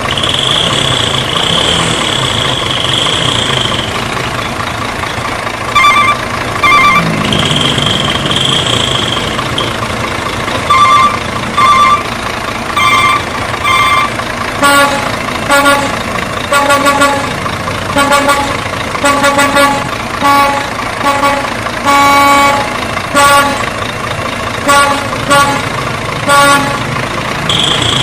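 Vehicle horn honked in many short toots. First come higher paired beeps from about six seconds in, then a lower, fuller horn tooted rapidly over and over from about halfway. A steady high-pitched tone sounds during the first few seconds.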